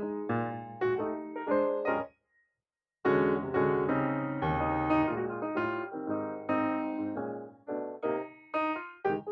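Background piano music, single notes and chords struck and fading; it cuts out completely for under a second about two seconds in, then starts again.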